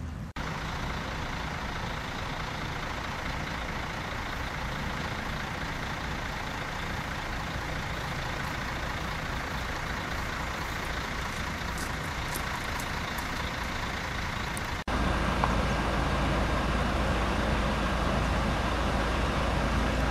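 Motor vehicle running: a steady low rumble with road hiss. It breaks off abruptly about 15 seconds in and comes back louder.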